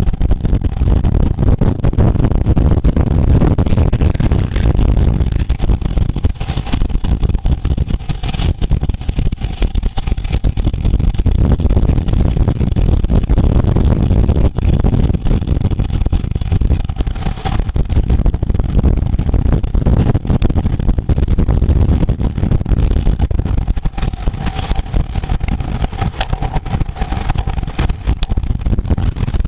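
Steady loud rushing of wind and road noise while travelling at speed along a road, heavy and rumbling in the low end, with a faint steady hum above it.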